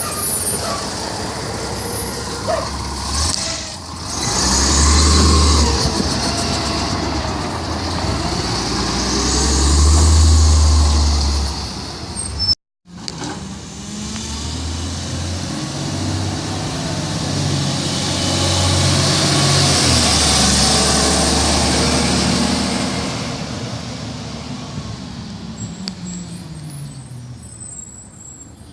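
Garbage truck's diesel engine running, swelling louder twice. After a short break it runs again and fades away near the end.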